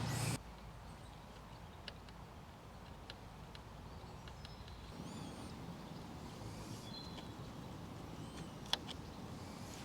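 Quiet garden ambience with a few faint bird chirps around the middle, scattered small clicks and taps, and one sharper click near the end.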